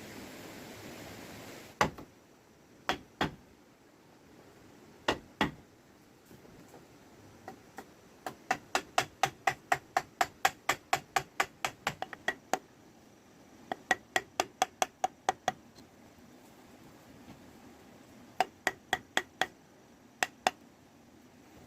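Hammering on bamboo and wood. A few single knocks come first, then three runs of rapid blows at about four a second, the longest lasting about four seconds.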